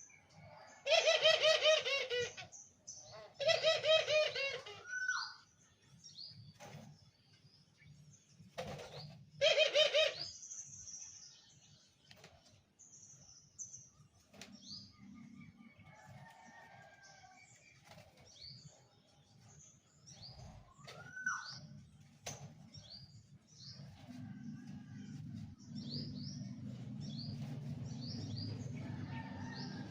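Doves cooing: three loud, warbling coos in the first ten seconds, with small birds chirping faintly throughout. A low steady hum comes in near the end.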